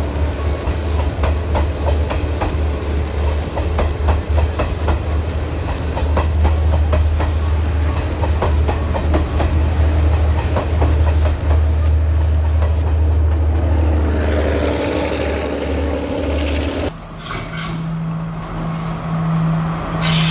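Diesel multiple unit coaches rolling past close by, wheels clicking over rail joints over a heavy low rumble. About 17 seconds in the sound cuts abruptly to a Class S12 diesel multiple unit running along a station platform, with a steady low engine drone.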